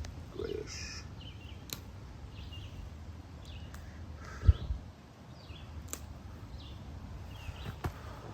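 Small birds chirping intermittently in the woods, with a single dull low thump about four and a half seconds in.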